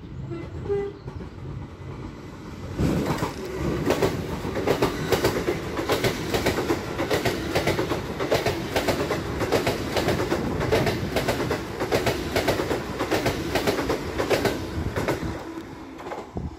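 LNER Azuma high-speed train running through a station. A quieter rumble gives way suddenly, about three seconds in, to a loud steady rumble with a rhythmic wheel clatter of about three beats a second, easing near the end.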